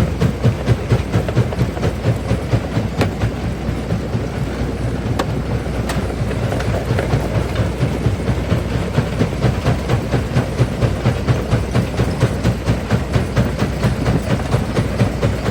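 Quarry jaw crusher running and crushing stone, with a steady low pulse of about four to five strokes a second from the swinging jaw and a few sharp cracks of rock breaking.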